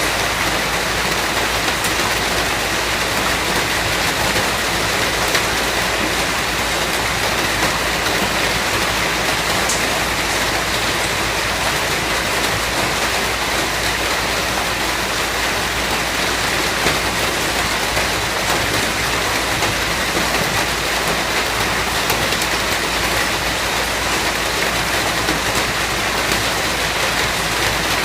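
Steady rainfall, an even hiss of rain falling on a surface with occasional faint drop ticks.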